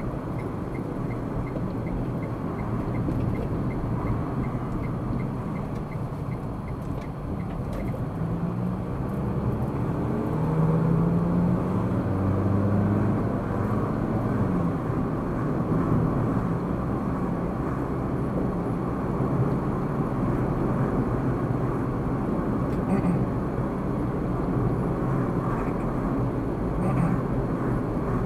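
Car driving in city traffic, heard inside the cabin: steady engine and tyre noise, with the engine note rising and falling between about nine and fourteen seconds in as the car pulls away. During the first seven seconds or so there is a fast, even ticking, the turn-signal indicator.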